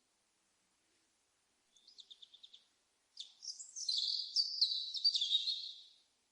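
A small songbird singing: a quick run of about seven short high notes about two seconds in, then a longer high warbling phrase lasting about three seconds.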